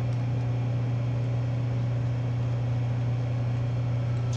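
Steady low electric hum of a rotary phase converter and the Bridgeport milling machine's motor running, with no cutting going on.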